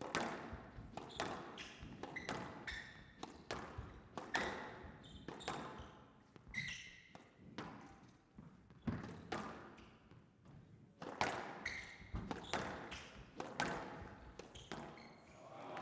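Squash rally: the ball cracking off rackets and the court walls in sharp hits roughly every half second to second, with brief squeaks of players' shoes on the court floor.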